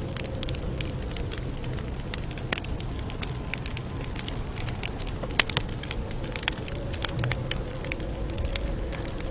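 Campfire crackling: irregular sharp pops and snaps of burning wood over a low steady rush of flames, with one louder pop about five seconds in.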